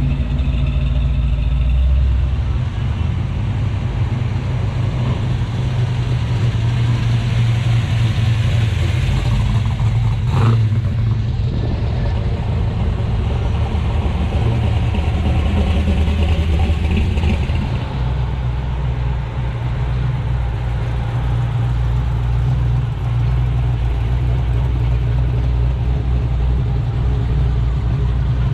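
Car engine running with a steady low rumble, with a single short click about ten seconds in.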